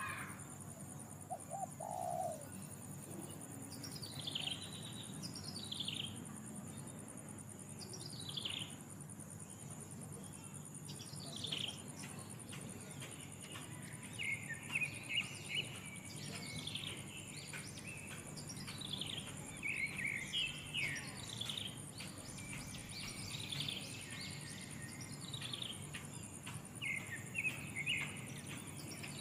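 Bird calls: short notes sweeping downward in pitch, repeated every second or two, joined by busier chirping from about halfway in. A steady high insect drone runs underneath.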